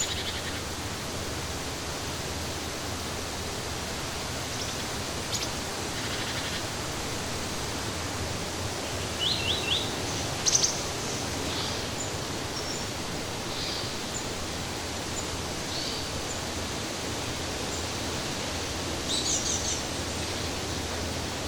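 Scattered short bird chirps and calls over a steady, even outdoor hiss. There is a quick run of three chirps about nine seconds in, and a trill near the end.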